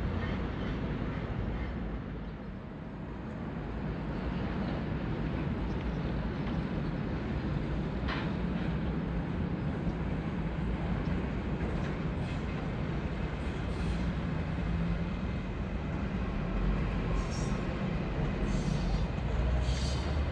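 A train rumbling along the tracks. Several short high-pitched squeals come from the wheels near the end.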